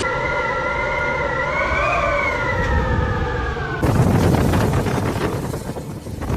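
A wailing tone that rises slowly and then falls, over a steady rushing noise, cut off about four seconds in by a louder rushing roar of storm wind.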